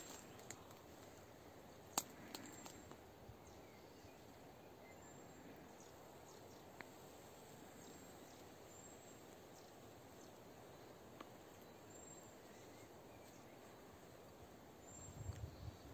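Near silence: a faint, even outdoor background hiss with a few faint short high chirps and one sharp click about two seconds in.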